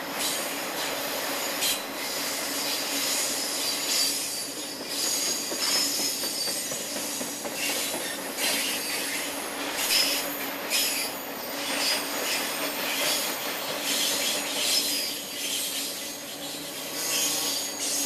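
Train cars rolling past with steel wheels squealing against the rails in thin high tones, over a steady rumble with irregular clacks.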